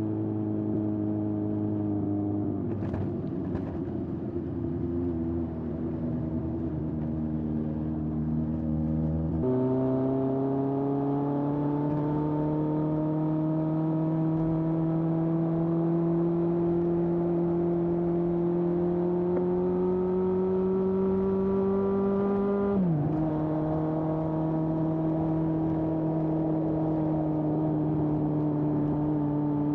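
Exhaust note of a 1981 Honda CB750F's air-cooled inline-four through a vintage Yoshimura exhaust, heard while riding. The revs sag gently, then step up suddenly about nine seconds in at a gear change. They climb slowly and steadily under acceleration, drop sharply at an upshift a little past twenty seconds, and settle into steady cruising.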